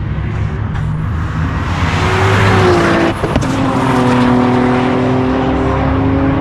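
Roll-racing cars under hard acceleration. The engine and tyre noise swells about two seconds in, there is a short sharp crack about three seconds in, and then a steady engine note holds until the sound cuts off at the end.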